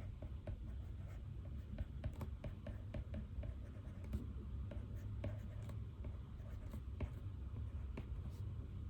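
Pen writing on paper: quick, irregular scratching strokes with small ticks as the pen lifts and touches down, over a steady low hum.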